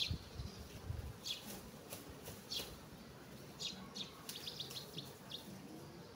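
A bird chirping in short, high, downward-sliding notes spaced a second or so apart, with a quick run of notes about four and a half seconds in. A few soft low knocks come in the first second.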